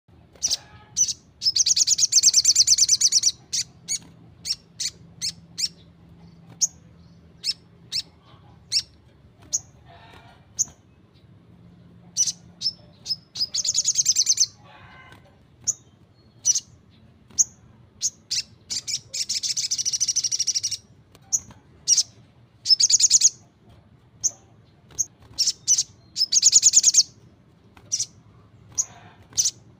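A sunbird singing: many short, sharp, high chirps broken up by rapid buzzy trills of a second or two each, the longest near the start, in the middle and near the end.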